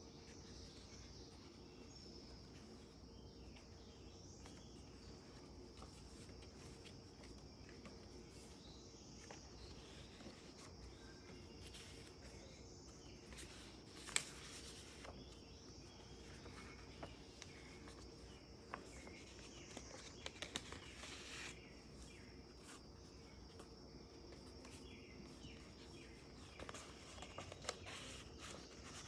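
Quiet handling of a handmade paper junk journal: soft paper rustles and light taps as pages are turned, with one sharp click about halfway and a busier patch of rustling a little later. A faint steady high tone and low hum run underneath.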